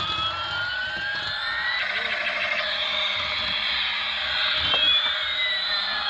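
Battery-operated toy Airbus A380 playing its electronic jet-engine sound through its small speaker: a steady hiss with a whine that slowly rises in pitch, then about four and a half seconds in a second whine that slowly falls.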